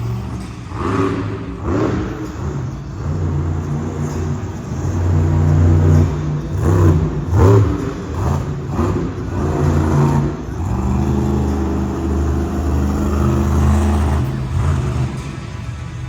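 Monster truck engine revving hard, its pitch stepping up and down as the throttle is worked, then holding a steady high rev near the end. A few sharp bangs come in the middle and are the loudest moments.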